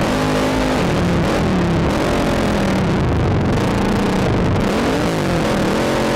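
Sport ATV engine being ridden hard, its revs climbing and dropping again and again, over a constant rush of wind noise on a helmet-mounted camera.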